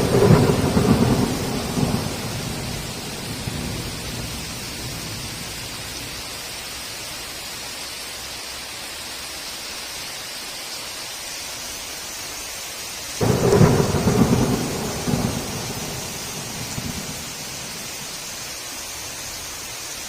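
Heavy rain hissing steadily with two rolls of thunder: one breaks right at the start and fades over a few seconds, and a second begins sharply about thirteen seconds in and rumbles for about four seconds.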